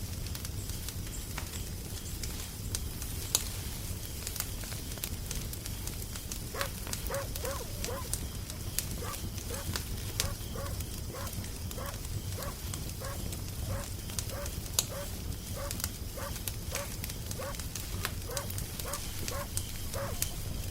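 Wood fire crackling with scattered sharp pops over a low steady rumble. From about six seconds in, an animal gives a run of short, pitched calls, about two a second.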